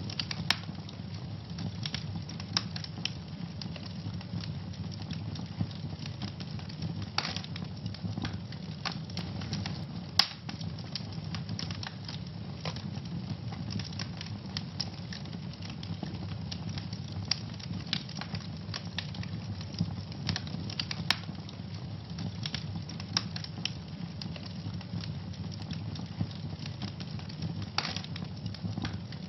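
Wood fire burning in a fireplace, with a steady low rumble under constant crackling and scattered sharper pops.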